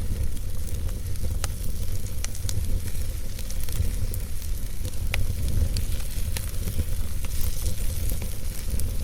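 Wood fire burning in a fireplace: scattered sharp crackles and pops, a few a second, over a steady low rumble of the flames.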